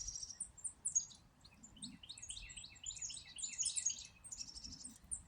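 Mixed flock of small songbirds, among them chickadees, titmice and towhees, chirping and calling at a feeder over freshly put-out seed: many short high chirps overlapping, with a run of quick repeated notes, about three or four a second, in the middle.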